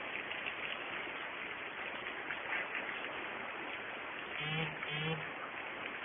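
Heavy rain falling steadily in a thunderstorm, with a hiss from the downpour. About four and a half seconds in come two short, low pitched sounds about half a second apart.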